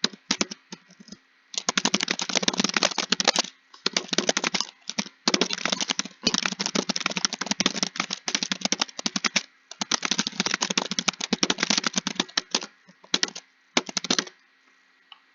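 Fast typing on a computer keyboard: bursts of rapid keystrokes separated by short pauses, stopping shortly before the end.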